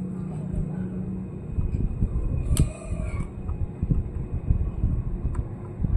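Irregular low knocks and bumps from handling a laptop on a work surface, with one sharper click about two and a half seconds in.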